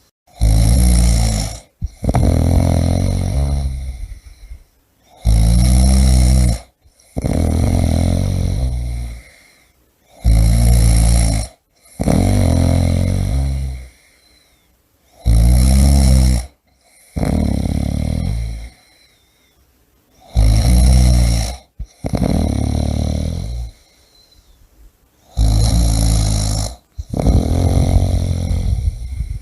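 A person snoring loudly in a steady breathing rhythm: each breath cycle is a short snore followed by a longer one that fades out, repeating about every five seconds.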